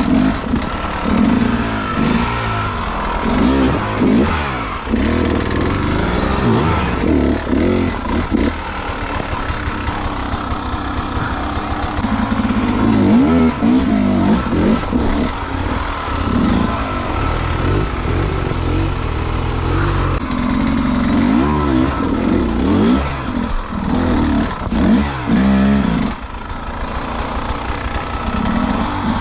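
Beta two-stroke enduro dirt bike engine revving up and down over and over, its pitch rising and falling every second or two as the throttle is worked.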